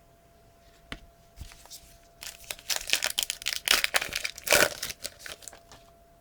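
Crinkling and tearing of a trading-card pack wrapper being opened by hand. A single click comes about a second in, then a few seconds of dense crackling, loudest near the middle.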